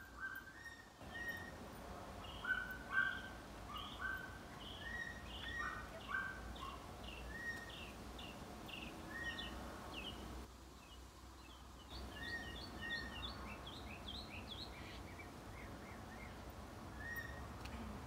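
Songbirds chirping and calling in quick, repeated short notes, over a steady low background rumble. The calls stop for about a second and a half just past the middle, then pick up again.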